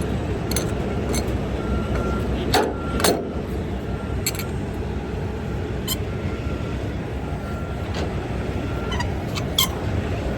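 Semi truck's diesel engine idling steadily under scattered metallic clicks and clanks as the trailer's landing gear is cranked down. Two louder clanks come close together about a quarter of the way in.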